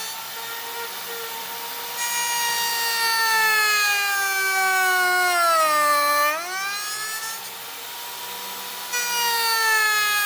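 High-speed electric woodworking power tool whining. Twice its pitch sags and the sound grows louder as it bites into the wood, the first time bottoming out about six seconds in before it jumps back up to free-running speed.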